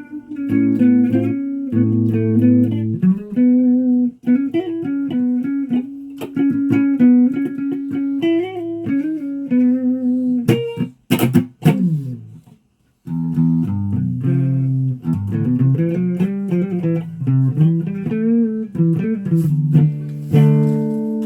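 Guitar playing a run of plucked notes. About halfway through the notes stop for a few sharp knocks and a moment of silence, then the playing starts again.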